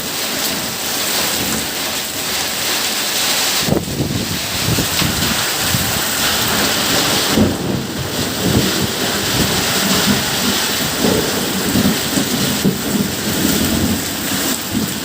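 Heavy rain pouring down in a thunderstorm, with rolling thunder rumbling from about four seconds in.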